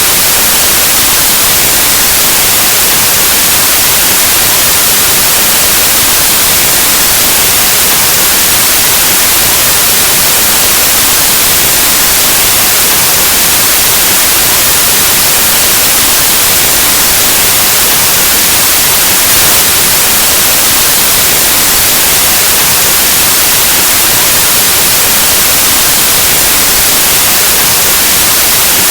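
White noise: a steady, loud, even hiss of static like a detuned analog television or radio, unchanging throughout.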